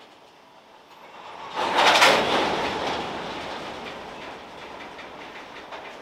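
Freight train covered hopper cars rolling past close by, their steel wheels clattering over the track. The noise swells to its loudest about two seconds in, then settles into a steady clatter of regular clicks.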